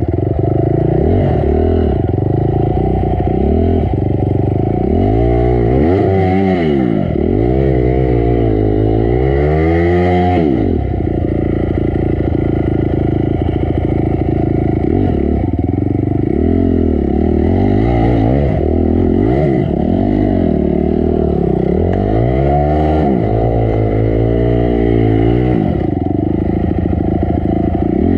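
Honda CRF250 dirt bike's single-cylinder four-stroke engine revving up and down again and again, working over rocky, rooty trail, with a steadier run about a third of the way in.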